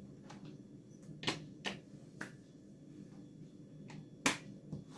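Magnetic letters clicking and tapping against a fridge door as they are moved into place: about half a dozen sharp clicks at uneven intervals, the loudest a little after four seconds in.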